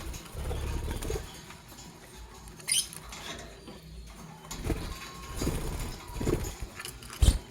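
Lovebirds moving about, scratching and rustling with soft low thumps, a sharp click about three seconds in and a loud knock near the end.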